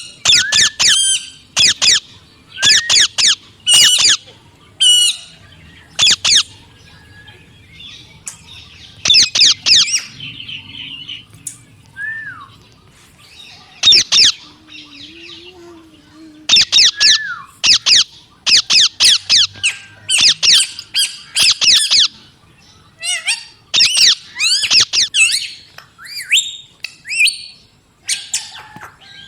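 Parrot squawking: loud, short, harsh calls given in quick runs of several at a time, with pauses of a second or more between the runs.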